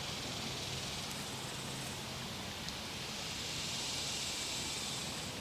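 Steady outdoor background noise between shots: a soft, even hiss with a faint low hum underneath and no distinct event.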